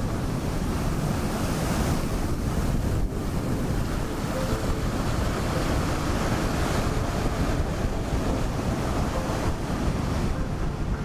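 Ocean surf washing in continuously, with wind buffeting the microphone in a heavy low rumble.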